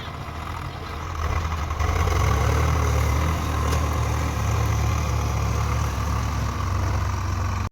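Swaraj 744 tractor's three-cylinder diesel engine running, growing louder about one and a half seconds in and then holding steady; the sound cuts off suddenly at the end.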